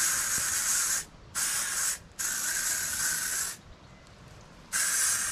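Aerosol can of antifungal spray hissing in four short bursts onto a bare foot, the last starting near the end.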